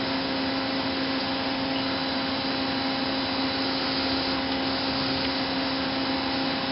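Kia KH40A horizontal machining center running under power: a steady mechanical whir with a constant low hum and a faint high whine, unchanging throughout.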